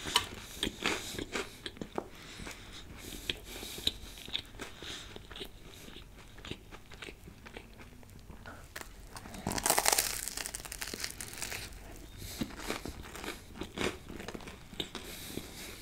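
Big bites of a toasted egg and cheese sandwich being chewed close to the microphone: crisp crunching of the grilled bread mixed with wet chewing, loudest about ten seconds in.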